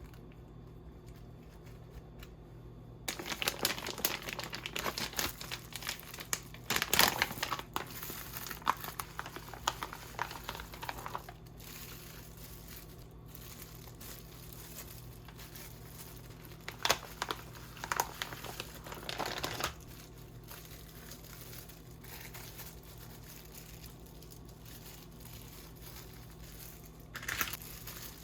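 Packaging crinkling as it is handled, in bursts: a long stretch starting about three seconds in, another shorter one later, and a brief one near the end. A faint steady hum sits underneath.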